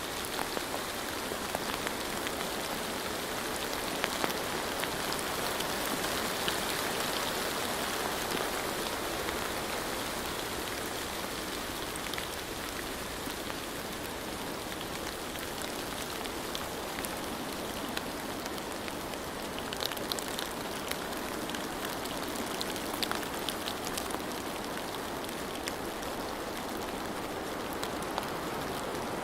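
Steady rain falling, an even hiss with scattered sharp drop ticks that come thicker about two-thirds of the way through.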